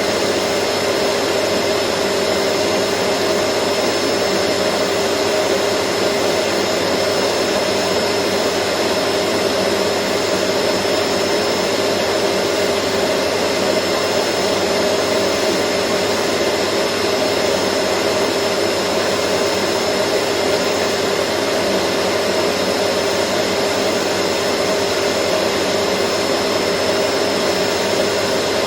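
Vacuum cleaner motor running steadily, a constant rushing noise with a steady hum and a thin high whine, without changes in speed.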